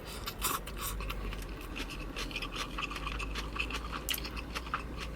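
Close-miked chewing of a mouthful of chicken biryani with raw onion: irregular wet crunches and clicks.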